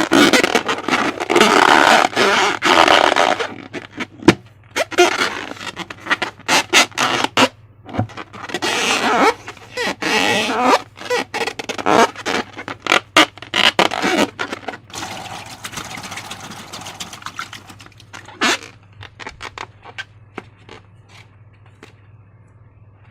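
Slime being squished and worked by hand, wet squelching full of small clicks and pops in bouts of a few seconds, growing quieter and sparser in the last few seconds.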